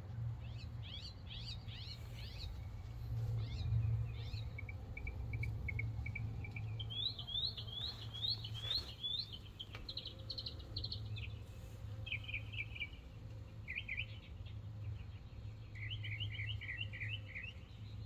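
Small songbirds chirping in short, quick series of notes and brief trills, again and again, over a steady low hum.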